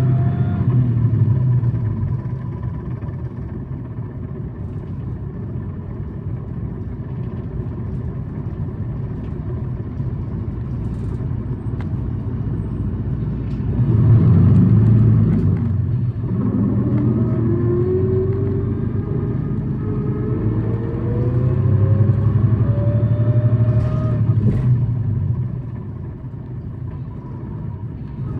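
Tokyu city bus's engine and drivetrain heard from inside the cabin as it drives: a steady low drone with a rising whine as it accelerates. The bus surges louder about halfway through, then whines climb in pitch before easing off near the end. The bus runs at high revs and is known for an abnormal noise.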